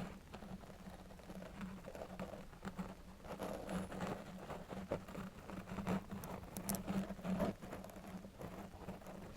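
A long metal nail scratching and tapping close to the microphone: quick irregular scratches and taps, busiest in the middle, over a faint steady low hum.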